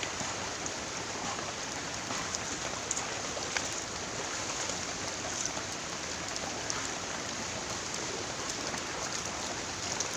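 Steady rushing water noise, an even hiss with a few faint scattered ticks.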